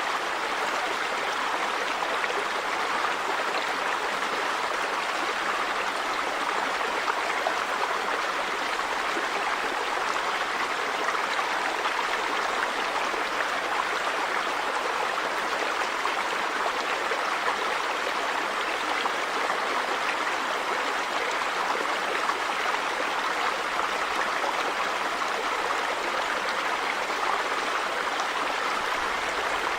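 River water running over stones, a steady rushing flow.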